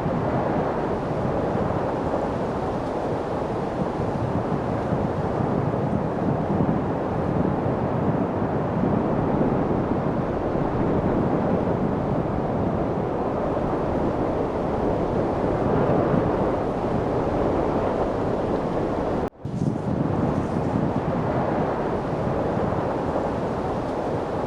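Steady wind noise, an even rushing sound weighted to the low and middle range. It breaks off for a split second about nineteen seconds in, then carries on unchanged.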